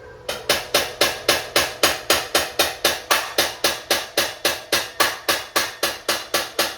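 A rapid, evenly spaced run of sharp taps, about five a second, all of equal strength, that stops suddenly near the end.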